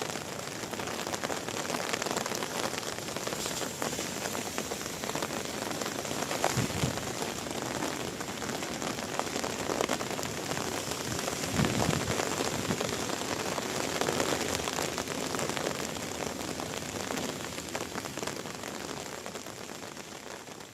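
Steady rain falling, a dense patter of many fine drops, with a couple of brief low knocks along the way.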